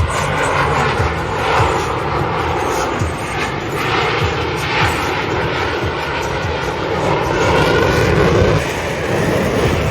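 Military jet aircraft flying a display, their jet engines making a loud, steady noise that swells and eases as they pass.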